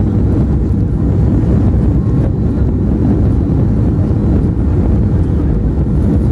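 Steady low rumble inside the cabin of a Boeing 737-500 on the ground after landing, its CFM56-3 engines running at idle.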